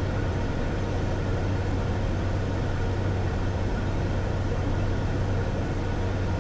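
Steady in-flight cabin drone of a Cessna Caravan's single Pratt & Whitney PT6A turboprop engine: a constant low hum with a hiss over it.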